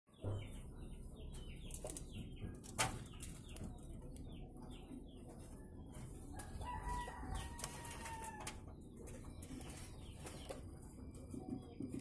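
Birds calling: a run of quick, short falling chirps about twice a second for the first few seconds, then a longer held call of about two seconds in the middle, with a single sharp click near the start.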